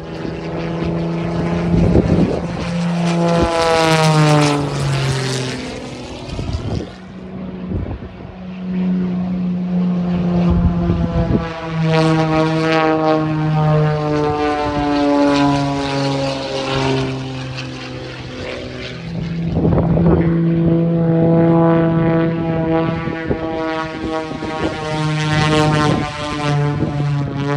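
Single-engine aerobatic propeller plane flying a display, its engine and propeller note rising and falling in pitch through the manoeuvres. A steep falling pitch sweeps past about four seconds in, and the note swells again around twelve, twenty and twenty-five seconds.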